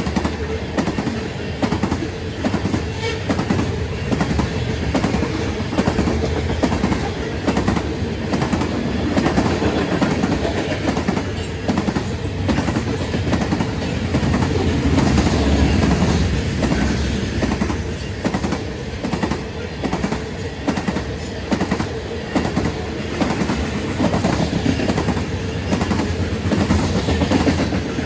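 Freight train cars rolling past, their wheels clicking in a repeating pattern over rail joints above a steady low rolling noise.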